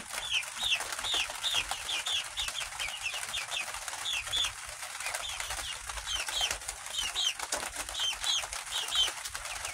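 Young chickens peeping: a steady run of short, high chirps, several a second, from a number of birds.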